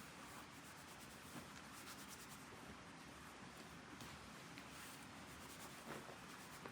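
Near silence with faint, light scratching and rubbing and a few soft ticks.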